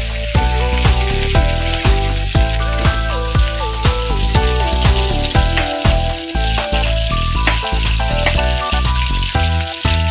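Chopped chilies and garlic sizzling in hot oil in a wok, over background music.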